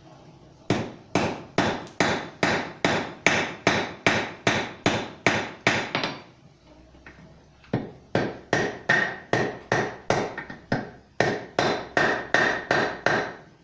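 Hand hammer striking white-hot steel on an anvil, forge-welding a scarfed joint at welding heat. Two runs of quick, even blows, about three a second, with a short pause between.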